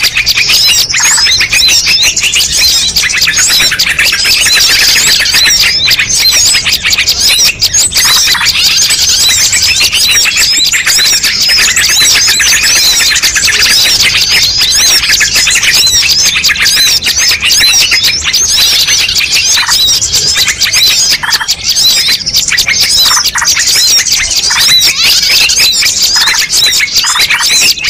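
Dense mixed chorus of many small birds chirping, twittering and whistling at once, loud and without a break: a bird-lure recording that combines the calls of many species.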